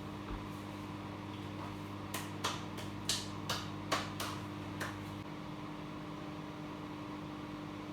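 Microwave oven running with a steady hum while cooking porridge oats, with a quick series of about seven sharp clicks in the middle.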